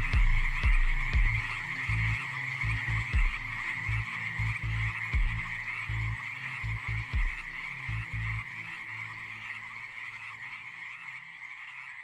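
Chorus of frogs croaking, a dense steady trill, over deep dub techno bass thumps that stop about two-thirds of the way through; everything slowly fades out.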